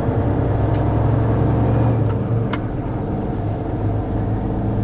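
Heavy-haul semi truck's diesel engine running steadily, with a single sharp click about two and a half seconds in.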